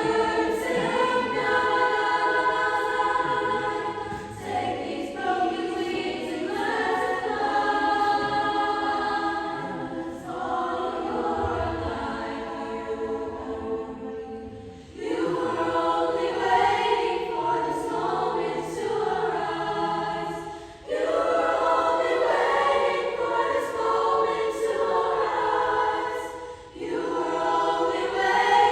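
A choir singing held chords in long phrases, with short breaks between them.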